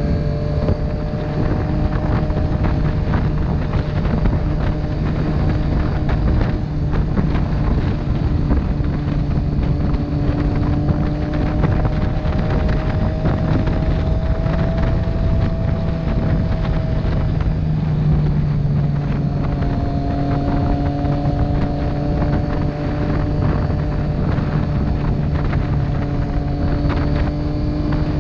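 Motorcycle engine running at a steady road speed, with heavy wind rush on the microphone. The engine note holds, eases slightly and dips about two-thirds of the way through before settling again.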